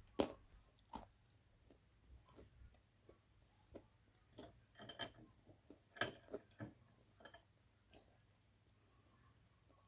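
Dry blue clay crunching and cracking as it is bitten and chewed: irregular sharp crunches, the loudest just after the start and about six seconds in, with a cluster of smaller ones between four and eight seconds.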